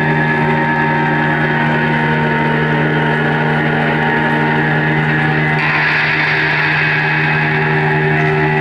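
Live amplified drone music: a loud, steady wall of held, layered tones with no beat. About five and a half seconds in, a brighter, hissing layer swells in over the drone.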